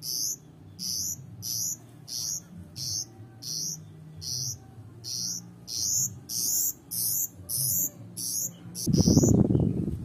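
A fledgling pied bushchat giving hissy, high-pitched begging calls about twice a second. About nine seconds in, the calls stop and a loud scuffle follows as the bird pounces on a praying mantis on the concrete.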